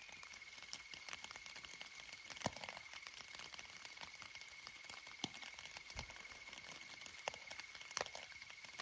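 Faint steady high-pitched trill of an insect, with scattered light taps and crackles of raindrops on the bivvy's fabric, about five of them louder.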